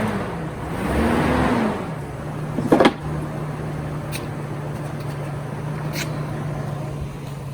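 GMC Envoy engine revving up and down twice as the SUV is driven onto ramps, then idling steadily. A short, loud sharp sound comes just under three seconds in.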